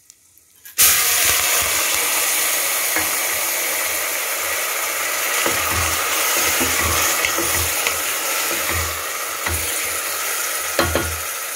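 Soaked raw rice and moong dal sizzling loudly in hot melted butter in a steel pressure cooker, the sizzle starting suddenly about a second in. A wooden spatula knocks and scrapes against the pan as it stirs.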